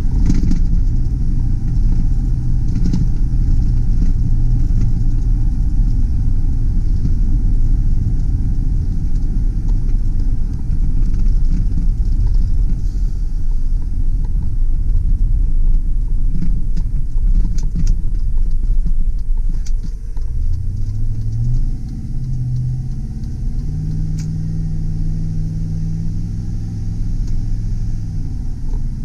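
2005 Chevy Silverado 2500 HD pickup driving, with a steady low engine and road rumble. About twenty seconds in, the engine note climbs in steps, holds, and falls back near the end.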